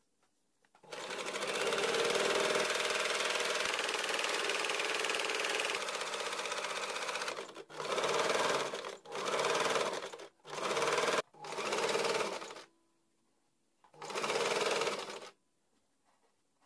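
Electric sewing machine stitching: one long run of about six and a half seconds, then four short bursts in quick succession, a pause, and one more short burst near the end.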